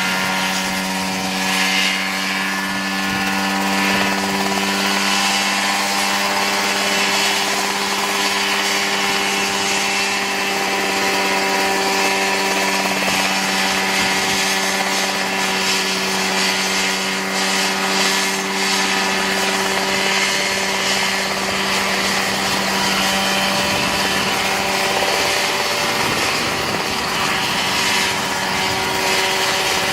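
Homemade ultralight helicopter's engine and rotor running steadily, one constant pitched engine note with a rushing noise over it, holding the same speed throughout.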